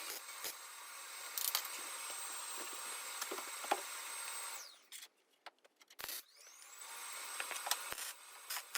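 Power grinder running on sheet-metal body panel with a steady high whine and scattered scraping clicks. About halfway through it spins down to near silence, then spins back up a second and a half later.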